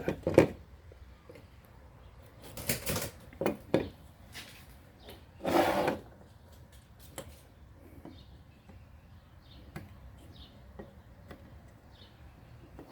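Scattered clicks, taps and knocks of small tools and circuit-board parts being handled while soldering, with a brief noisy scrape about five and a half seconds in and fainter ticks after it.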